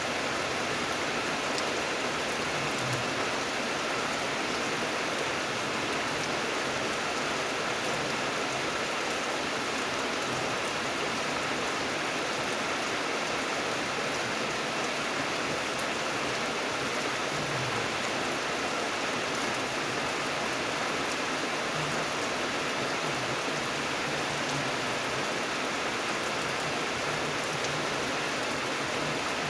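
Steady rain falling, an even hiss of drops on a surface with faint individual drop ticks.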